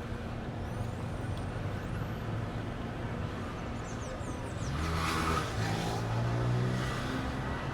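A motor engine running with a steady low hum that grows louder for about two seconds past the middle, with a brief hiss at that point. Small birds chirp a few times.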